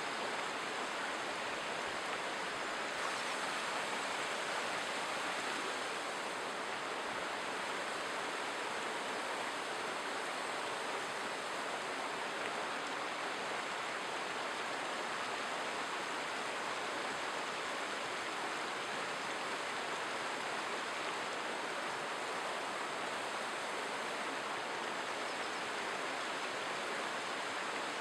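River water rushing steadily over rocks and logs, an even unbroken wash of sound.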